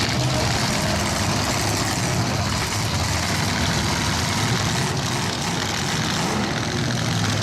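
Engines of several demolition derby trucks running together in a steady, dense din, with a low engine hum underneath and no single crash standing out.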